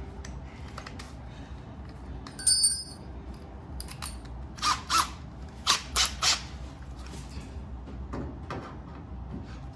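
Metal tools being handled over a steady low hum: a clink that rings briefly about two and a half seconds in, then a quick run of five short squeaky scrapes.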